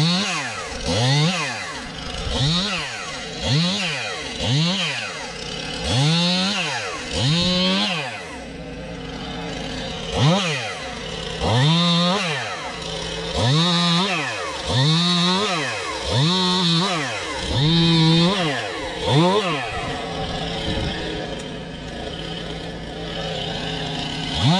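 Two-stroke chainsaw revved in repeated short bursts, about one a second, its pitch sweeping up and dropping back each time. For the last few seconds it idles steadily.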